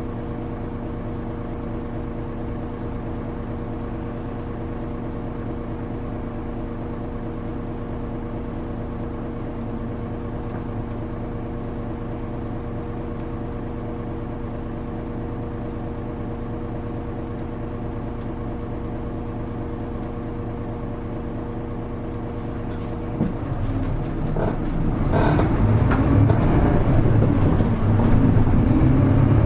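Running sound of a KL-HR1JNEE city bus heard from inside the cabin: the diesel engine idles steadily, then about 23 seconds in it picks up and pulls away, growing louder as the bus accelerates.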